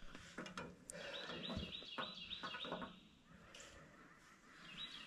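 A bird singing runs of quickly repeated high chirps, with a few light clicks and knocks in the first second.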